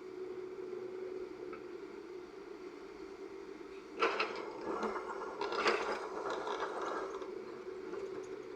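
Heavy earthmoving machine's diesel engine running steadily. About four seconds in comes some three seconds of clattering and scraping from the bucket working its load of murram soil and stones.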